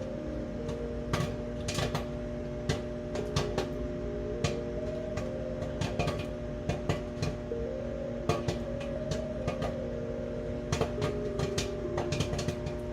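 Toshiba ML-AC28S microwave oven running with a steady hum while a bag of popcorn pops inside in sparse, irregular pops, about one to three a second. The popping is dwindling toward the end of the cycle, as most kernels have already popped.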